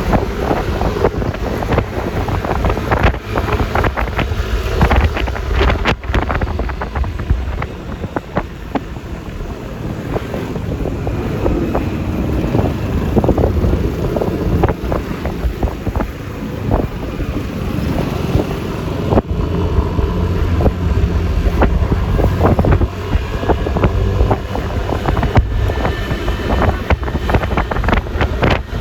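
Yamaha Lexi LX 155 scooter riding along the road: steady engine and tyre noise under heavy wind buffeting on the microphone, with the loudness fluttering.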